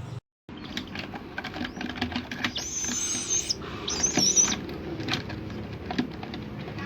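A baby bird of prey gives two high, wavering calls a little over a second apart, amid scattered light taps and clicks.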